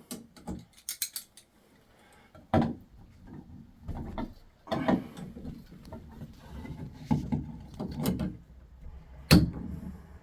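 Tools and metal parts clicking, knocking and scraping as the retaining clip is worked out of a Moen tub and shower valve, with a handful of sharp knocks a second or two apart.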